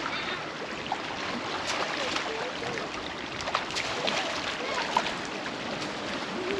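Choppy lake water lapping and splashing, a steady wash of noise with small splashes, and faint voices in the distance.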